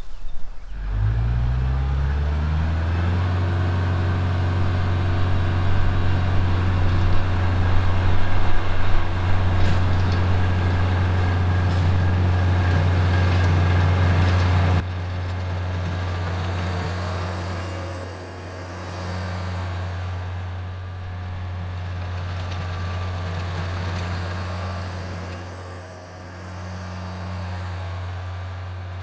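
Kubota L4701 tractor's diesel engine revving up about a second in, then running steadily as it drives the rototiller through the soil. About halfway through the sound drops suddenly and carries on quieter, swelling and fading as the tractor moves about.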